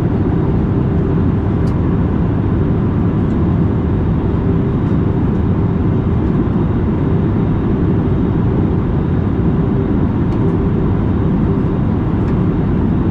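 Steady engine and airflow noise inside an Airbus A320neo airliner's cabin in flight, an even low rumble with a faint steady hum, unchanging in level.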